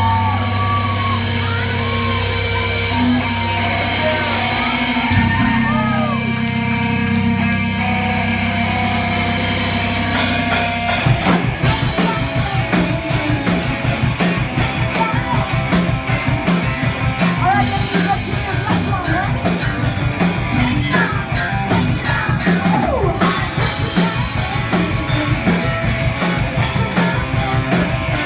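Metal band playing live: held, sustained low chords with high notes bending in pitch for about ten seconds, then the drums and the full band come in on a fast, driving beat.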